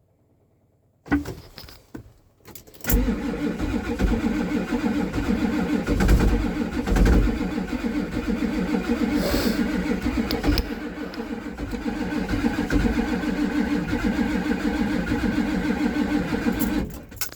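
Ford 7.3 IDI V8 diesel being cranked on a cold start: a brief turn of the starter about a second in, then about fourteen seconds of steady, rough cranking that stops abruptly near the end.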